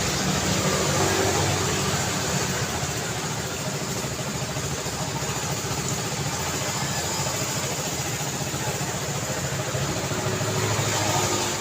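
Steady road traffic noise: a constant wash of passing vehicles with the low hum of car engines, which swells in the first couple of seconds and again near the end.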